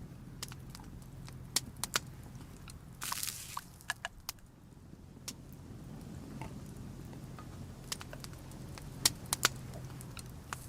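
Scattered sharp clicks and knocks, a few seconds apart, with a brief rustle about three seconds in, over a low steady hum.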